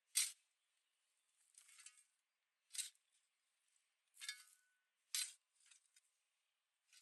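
A series of short, separate clinks and scrapes of hard objects, about six in the space of a few seconds, with silence between them and a brief ringing tone after one of them.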